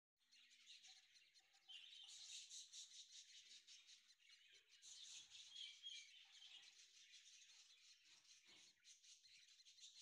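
Faint, continuous chirping of small birds: many short, high cheeps overlapping without pause.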